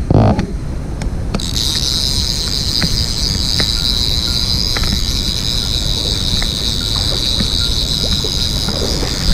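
Mountain stream water running steadily, with a steady high-pitched buzz joining in about a second and a half in and continuing.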